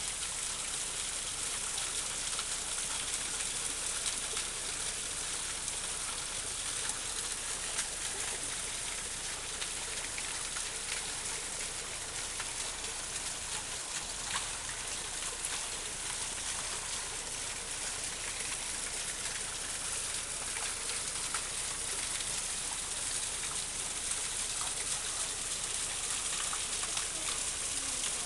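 Waterfall: falling water rushing and splashing in a steady, unbroken hiss.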